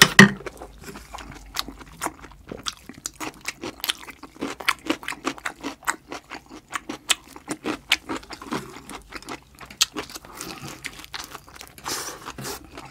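Close-miked chewing of a mouthful of curry rice and kimchi: a dense, irregular run of wet clicks and small crunches, loudest right at the start.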